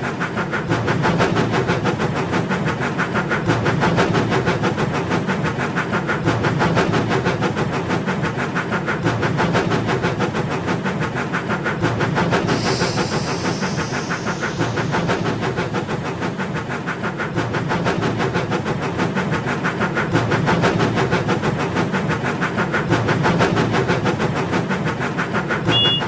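Toy train running along its track, a steady fast clatter throughout, with a short hiss about halfway through.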